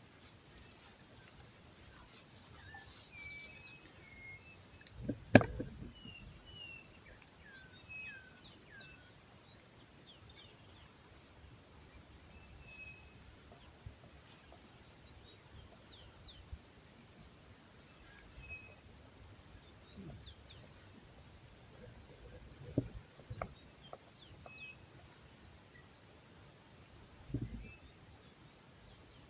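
Crickets trilling steadily in a high, pulsing band, with scattered short falling chirps over them. A few knocks, the sharpest about five seconds in and fainter ones near the end.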